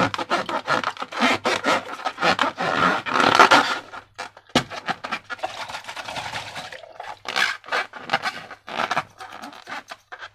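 Sticky slime being squished and worked by hand: a dense run of wet squelches and quick clicks that stops suddenly at the end.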